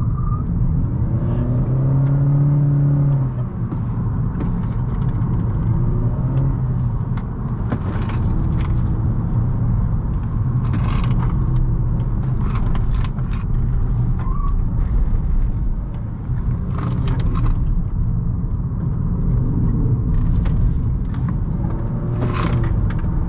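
Honda Accord's 1.5-litre turbocharged four-cylinder engine pulling hard through a run of tight curves, its note rising and falling with the throttle over a steady road rumble. Short clicks and rattles come and go throughout.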